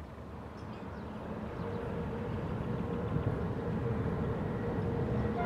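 Distant rumble of a passenger train crossing a steel truss railway bridge, growing steadily louder. A faint steady whine joins in about a second and a half in.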